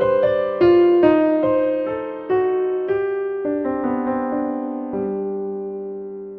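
Slow, gentle solo piano music: a run of single notes over held chords, the last chord fading away near the end.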